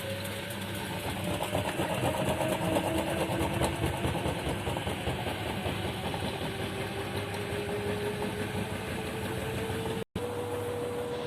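LG washing machine's motor whining as the drum spins, its pitch gliding slowly upward over a steady rumble. The sound cuts out for an instant near the end, then holds at a steady pitch.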